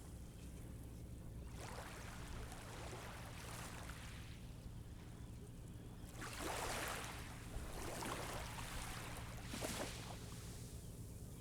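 Small waves washing in on a sandy beach, each wash swelling and fading over a second or two. The strongest comes about six seconds in, with another shortly before the end.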